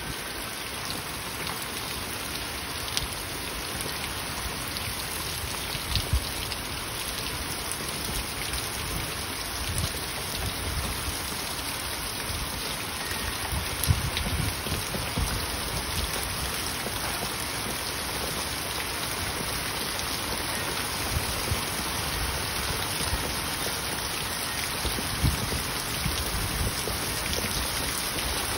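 Heavy rain falling steadily, a constant hiss of rain on grass, pavement and pooled water. A few louder, sharp knocks stand out, about 3, 6, 14 and 25 seconds in.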